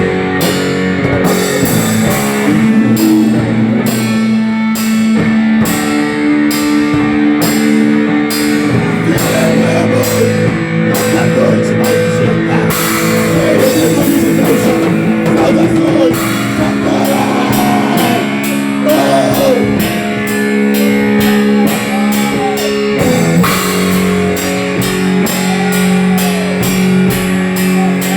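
Rock music: sustained guitar over a drum kit keeping a steady beat.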